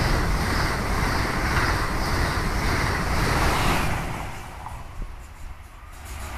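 Amtrak Acela Express high-speed electric train passing close at speed: a loud, steady rush of air and wheels on rail. About four seconds in it drops off sharply to a much quieter low rumble.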